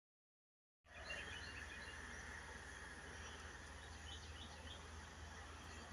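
Dead silence for just under a second, then faint outdoor ambience: scattered bird chirps over a steady background hiss and a low hum.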